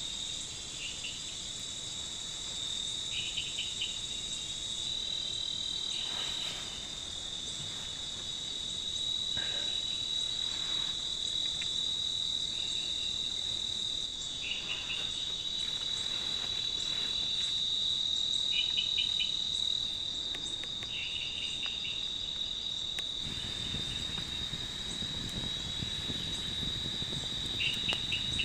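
Night chorus of crickets and other insects: a steady high-pitched trill runs on unbroken, with short pulsed chirps from another insect every few seconds. A low rushing noise joins in over the last few seconds.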